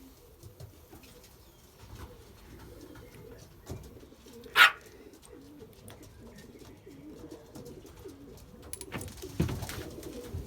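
Racing pigeons cooing softly and continuously. About halfway there is one sharp, brief, loud noise, and near the end a short burst of noise.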